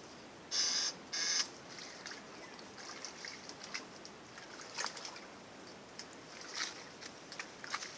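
Stream water trickling, with scattered small splashes and clicks. Two short, loud rushing bursts come about half a second and a second in.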